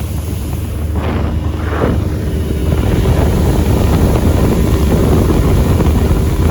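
A Bayliner Capri 1702 LS speedboat's 90 horsepower engine runs at planing speed, growing louder over the first few seconds and then holding steady. Wind buffets the microphone throughout.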